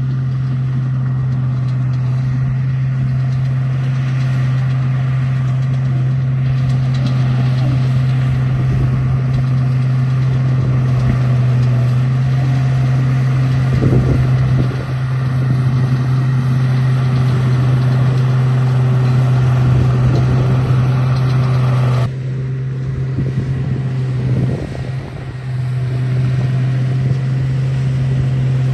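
Remote-control bulldozer running with a steady low engine-like drone and mechanical noise. About two-thirds of the way through, the higher mechanical noise cuts off suddenly while the low drone carries on.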